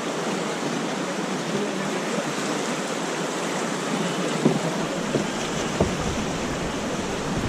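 River water rushing steadily around the raft. From about halfway, a low rumble and a few short knocks or splashes come in over it.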